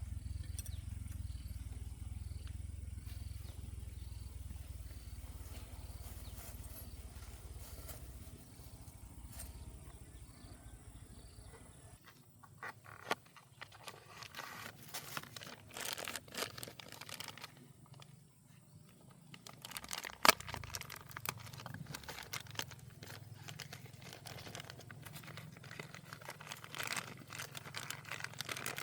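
A low steady rumble for about the first twelve seconds. Then it stops abruptly, and scattered light clicks and knocks follow as small metal engine parts and tools are handled, with one sharper knock about twenty seconds in.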